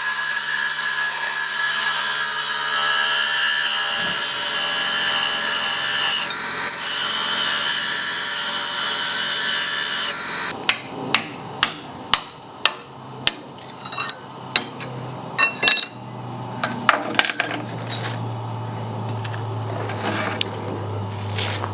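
A steady, loud hiss with a high whine from a cutting or grinding tool for about ten seconds. It cuts off, and a hammer then strikes the steel loader bucket over and over, about two blows a second.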